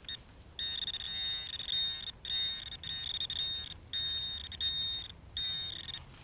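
Handheld metal-detecting pinpointer sounding a high-pitched alarm tone in several stretches with short breaks, as it is moved over a metal target in the dug hole (a large copper or brass washer).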